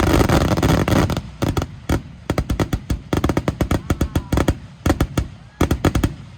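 Aerial fireworks going off in a rapid barrage: a dense unbroken run of bangs for about the first second, then quick clusters of sharp cracks that stop shortly before the end.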